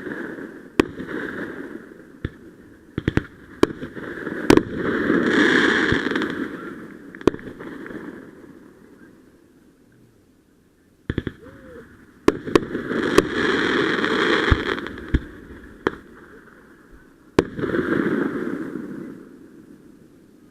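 Fireworks going off: a string of sharp bangs and pops, with three louder swells of crackling noise, each lasting two or three seconds, about five, twelve and eighteen seconds in.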